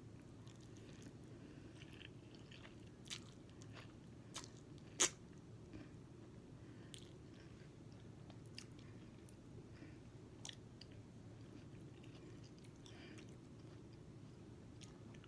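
Faint chewing of a mouthful of ramen noodles, with a few soft clicks scattered through, the loudest about five seconds in, over a low steady room hum.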